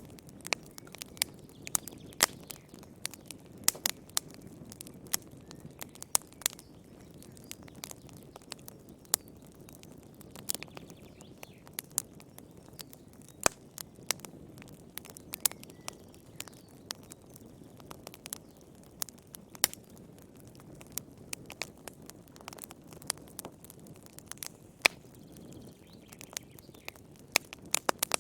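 Wood fire crackling in a fireplace: irregular sharp pops and snaps, several a second, over a soft steady low rush of the flames.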